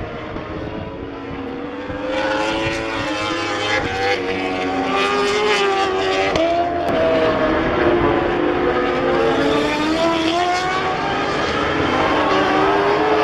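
MotoGP racing motorcycles passing at speed. Several engines overlap, their pitch rising and falling through gear changes, and they grow louder about two seconds in.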